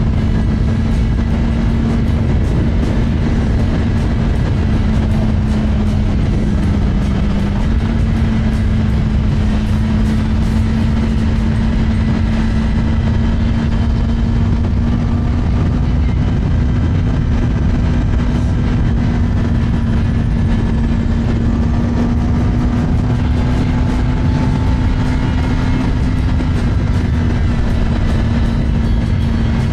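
Kawasaki ZX-10R's inline-four engine running at a steady cruising pitch, which steps up slightly about seven seconds in, under heavy wind rumble on the microphone.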